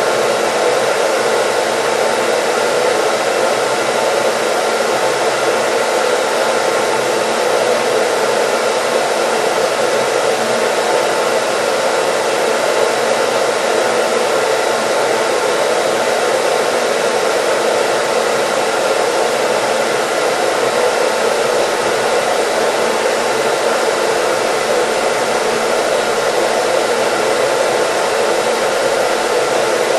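Hair dryer running steadily: a constant whooshing fan noise with a faint hum, unchanging throughout.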